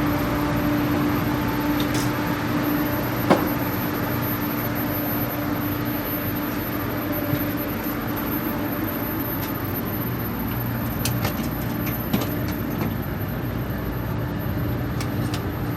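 Steady rumble and hum inside an Amtrak Acela passenger car, with a few light clicks and knocks scattered through. A steady hum fades out a few seconds in.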